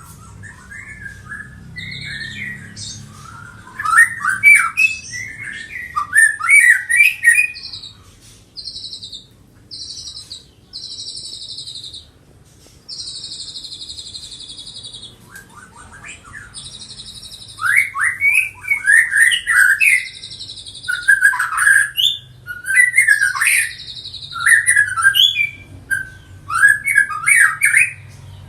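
Young six-month-old Medan white-rumped shama singing: loud bursts of fast, varied chirping phrases, with a stretch of long held high whistled notes in the middle.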